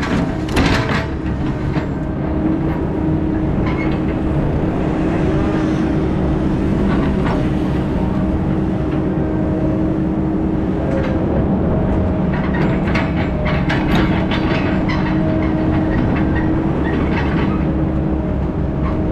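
Heavy diesel engine running steadily, with loose metal rattling and clanking over it in bursts.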